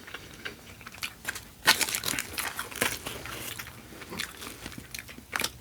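Close-miked eating sounds: a run of crisp, crackly bites and chewing of Voodoo fries, busiest a couple of seconds in.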